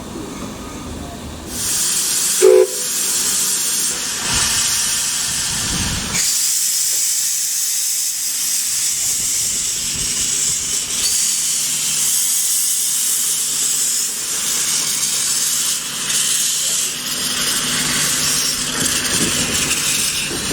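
Steam locomotive blowing off steam: a loud, steady hiss starts about a second and a half in and carries on. A very short toot of the engine's whistle comes just after the hiss begins.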